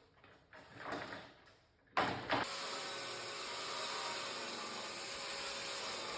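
Light knocks, then about two seconds in a sharp knock and a steady whir of a power tool motor that starts suddenly and keeps running.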